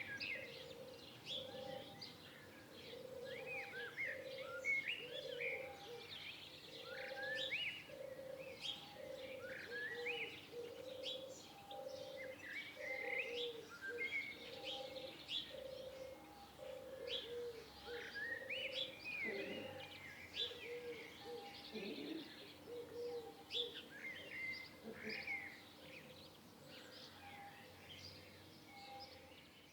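Several birds chirping and singing together in a dense mixed chorus of short, quick notes and sweeps, over a low note repeated more than once a second. It fades somewhat near the end.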